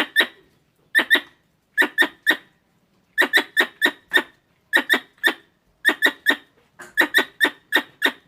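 Squirrel calling with sharp, squeaky chirps in quick bursts of two to four, about one burst a second.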